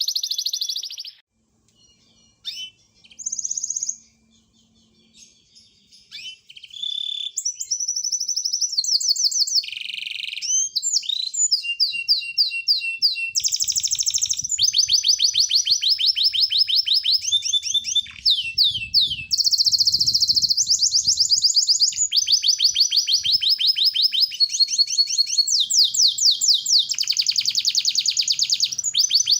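Songbird song made of fast runs of repeated high notes and sweeping trills, the rapid-fire 'tembakan' bursts used in Indonesian bird-song training tracks. Mostly quiet in the first few seconds, then near-continuous from about a quarter of the way in.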